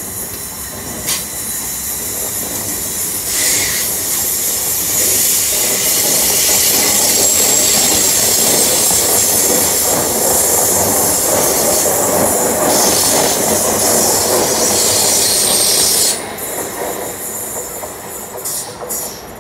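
Electric multiple-unit train running past on a curved track, a steady rush of wheel and rail noise with a high wheel squeal in the middle. The noise builds and then drops off sharply about sixteen seconds in as the train clears.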